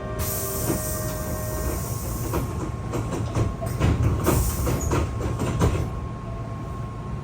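Hankyu train running slowly on rails under a steady low rumble. After a short hiss, its wheels clack irregularly over rail joints and points for a few seconds.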